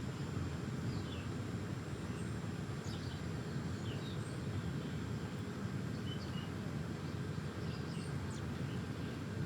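Small birds giving short, scattered chirps and tweets over a steady low rumble of background noise.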